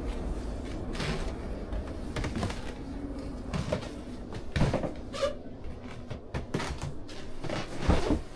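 A series of knocks and clunks over a low rumble, with the loudest knocks about halfway through and near the end.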